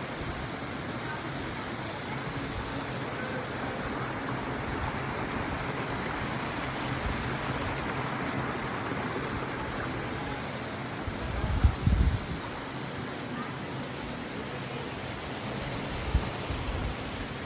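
Steady rush of flowing stream water. A couple of brief low bumps come about twelve seconds in and again near the end.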